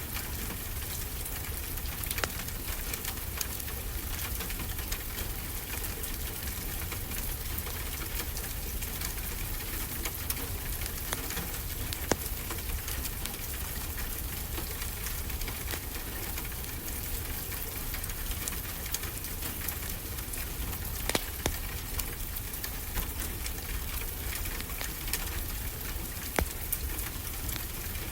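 Steady rain falling, with a wood fire crackling and a few sharp pops from the fire scattered through it.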